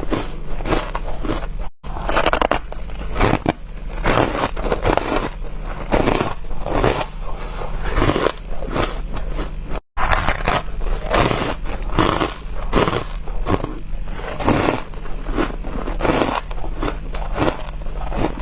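A person biting and chewing freezer frost close to the microphone: a run of squeaky, crispy crunches, about one or two a second, broken by two brief dropouts.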